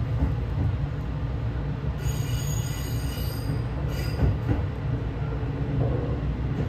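Sunrise Izumo 285-series sleeper train running slowly, heard from inside the car: a steady low rumble of wheels on rails. About two seconds in, a high squeal from the wheels lasts a second or so.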